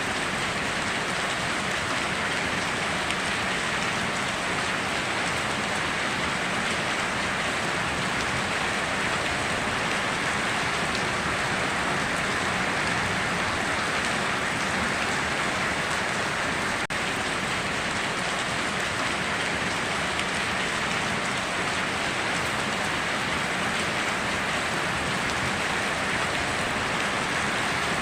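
Steady rain falling, an even hiss that stays at the same level throughout, with a momentary dropout about 17 seconds in.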